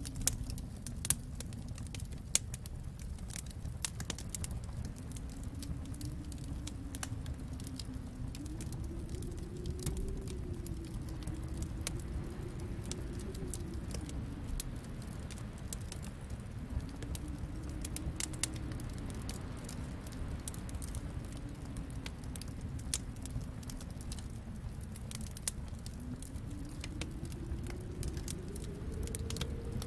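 Wood fire crackling, with sharp pops and clicks scattered throughout over a low rumble that slowly swells and fades.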